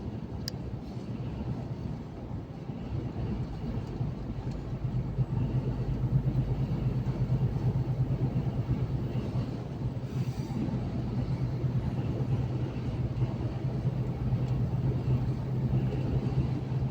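Truck engine and tyre noise while driving, a steady low drone that grows louder about five seconds in.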